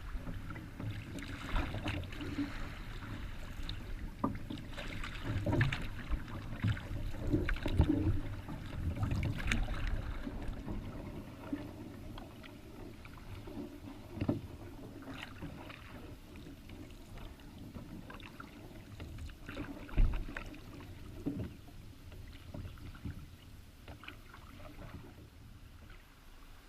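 Paddling a solo Kevlar canoe: irregular paddle splashes and knocks, busier and louder in the first half and thinning out later, with one louder thump about 20 seconds in.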